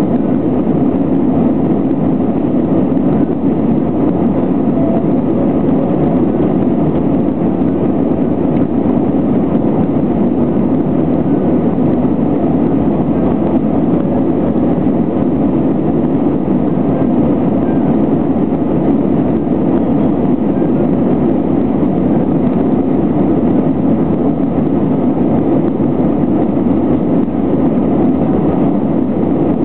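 Airbus A320 cabin noise during the climb: the jet engines and the airflow make one steady, unchanging drone.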